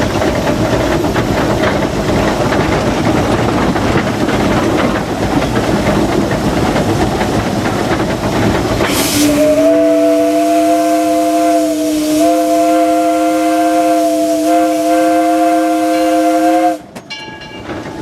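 Steam hiss and running noise of the 1925 Baldwin steam locomotive, heard from its cab. About nine seconds in, its original three-chime 4-inch Powell steam whistle sounds one long chord that dips briefly twice and cuts off sharply.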